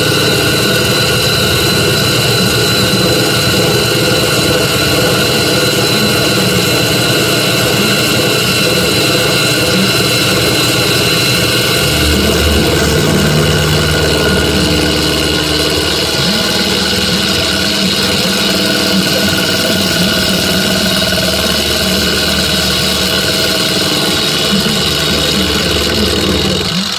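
Metal lathe running steadily while turning steel studs, a continuous machine hum with a high whine. The low rumble grows stronger about halfway through.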